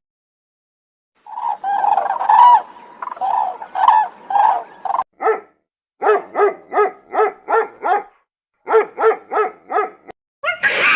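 An animal calling repeatedly: a few uneven calls, then two runs of short, evenly spaced calls at about three a second, separated by a brief pause.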